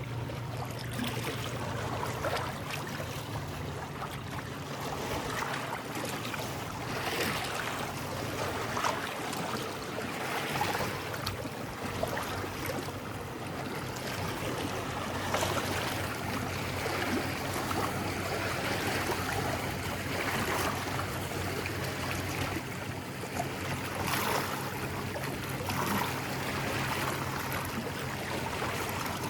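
Small sea waves lapping and washing against a rocky shore, swelling and fading every few seconds, over a steady low hum.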